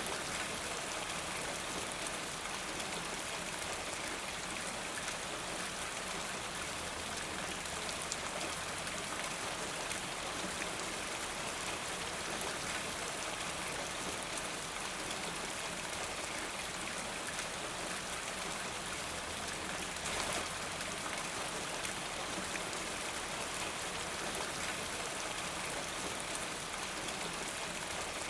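Steady rain falling, an even patter of raindrops, with one brief slightly louder moment about twenty seconds in.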